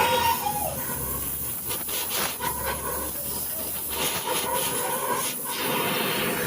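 Steady hissing noise with a low hum underneath.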